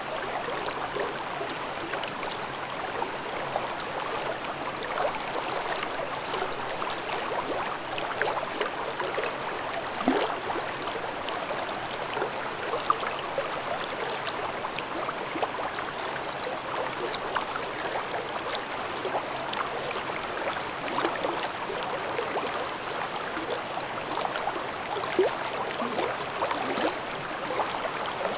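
A shallow mountain brook babbling over stones, a steady rush of water with small splashes and gurgles.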